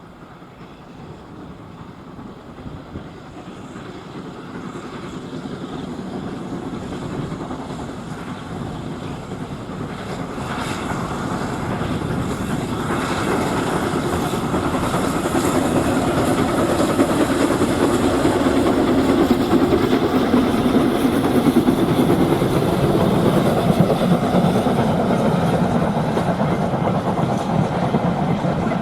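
Steam-hauled train approaching on the line, growing steadily louder over the first half and staying loud as it comes close.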